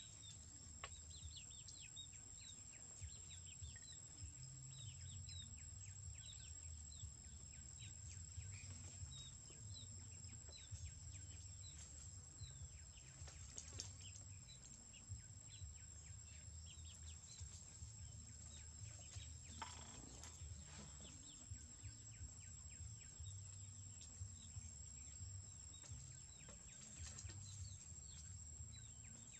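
Faint outdoor ambience: short, high bird chirps repeating every second or so throughout, over a steady low hum and a thin constant high whine.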